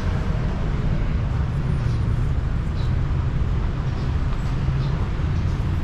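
Steady low rumble of motorbike and car traffic on a city street.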